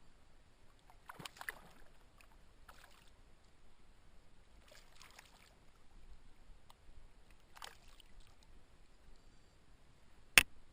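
Kayak paddle strokes swishing and dripping in the water, four uneven strokes, then one sharp knock near the end.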